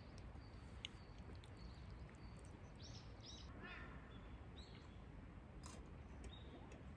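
Near silence: faint outdoor ambience with a low steady rumble, scattered faint ticks, and a few brief chirps in the middle.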